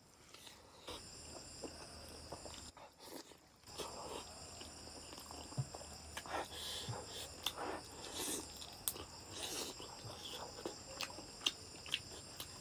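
Close-miked chewing and wet mouth sounds of a person eating curry and rice by hand, with irregular smacks and clicks of lips and tongue. Sucking sounds on the fingers near the end.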